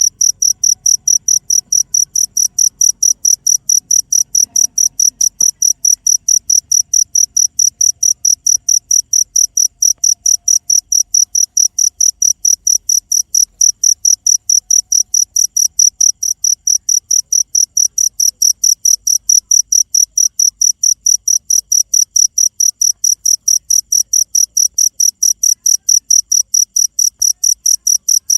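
A cricket chirping steadily: an even, high-pitched chirp repeating about three to four times a second without a break.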